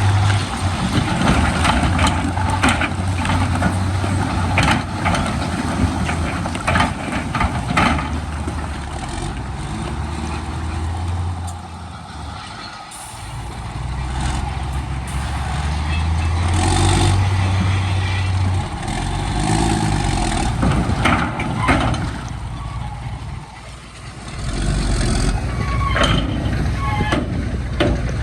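Heavy diesel earthmoving machinery at work, bulldozer and dump truck engines running with a low drone, sharp metallic clanks and short hisses throughout. The engine noise eases off briefly twice, once near the middle and once near the end.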